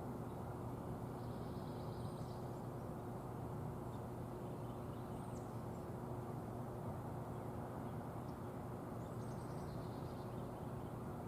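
Outdoor ambience: a few short bird calls, about a second in, around five seconds in and again about nine seconds in, over a steady low rumble with a faint steady hum.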